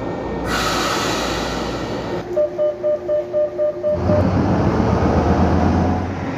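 City bus sounds: a rushing hiss of air, then a rapid electronic beeping for about a second and a half, then a low engine rumble that starts suddenly about four seconds in.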